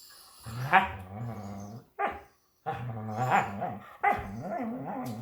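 Beagles play-fighting, with long, low growling vocalizations in three drawn-out runs and a short sharp bark about two seconds in.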